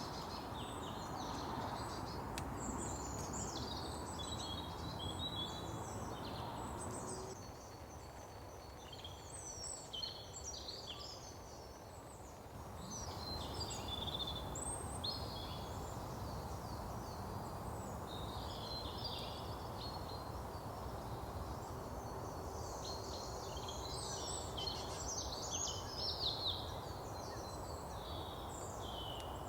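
Several songbirds singing and chirping in quick, varied phrases over a steady background hiss, which eases off for a few seconds about a quarter of the way in.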